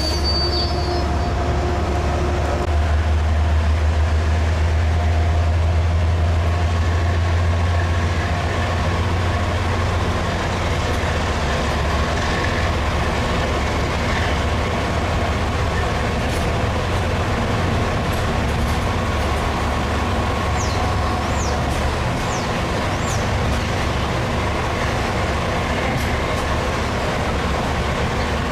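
Train running with a steady low rumble under a broad rolling noise. A few short, high squeaks come about two-thirds of the way through.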